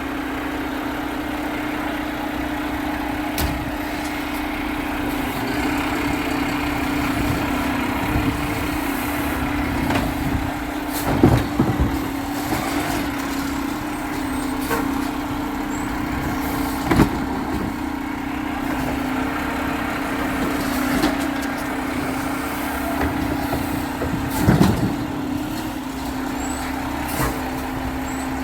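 Garbage truck running with a steady hum, with a few loud knocks about 11, 17 and 24 seconds in.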